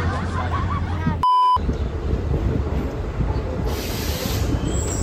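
A short electronic bleep about a second in, cutting over the tail of some talk, then a local passenger train running along the station platform, a steady rumble with a burst of hiss a little before the end.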